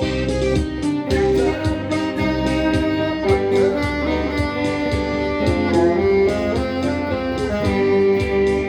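A band playing live music: guitar over a steady drum beat, with held melodic notes.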